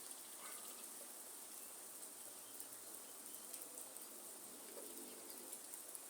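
Steady patter of rain in a forest, with a high insect drone and a few scattered bird calls, among them a low dove-like coo a little under five seconds in.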